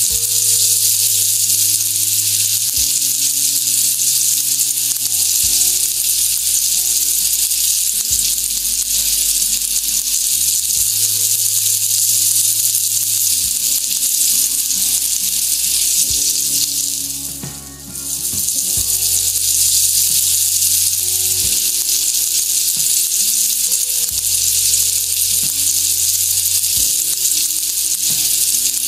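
Chicken pieces frying in hot oil in a wok: a loud, steady sizzle that drops away briefly about two-thirds of the way through, over low background music.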